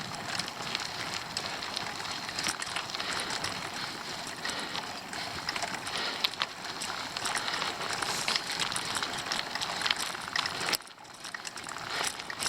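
Bicycle riding on an unpaved forest road: the tyres crunch over gravel with a dense run of small ticks and crackles over a steady rush of noise. The sound drops away briefly near the end.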